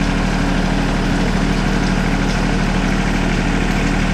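Engine of a lifting vehicle idling steadily with an even low pulse.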